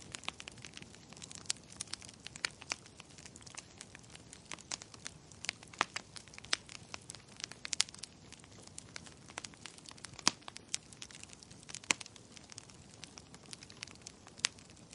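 Burning firewood crackling: irregular sharp pops and snaps, several per second, a few louder ones standing out, over a soft steady hiss of the flames.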